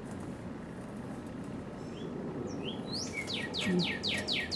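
A bird singing: a few scattered chirps, then from about three seconds in a quick run of short falling notes, about four a second, over a steady faint hiss.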